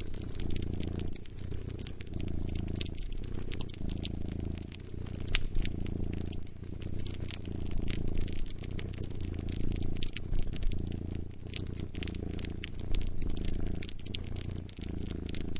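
A cat purring, a low rumble that comes in long pulses with short breaks at each breath. Over it a wood fire crackles with many sharp, irregular pops and snaps.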